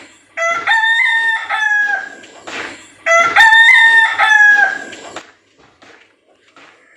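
Rooster crowing twice, two loud cock-a-doodle-doo calls a second or so apart, each held and dropping in pitch at the end.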